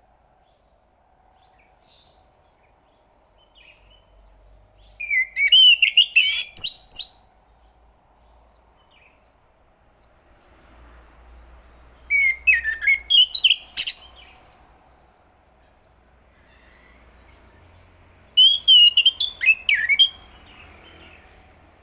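Chestnut-capped thrush singing three short, quick phrases of varied whistled and chattering notes, each about two seconds long and several seconds apart, over a faint steady hum.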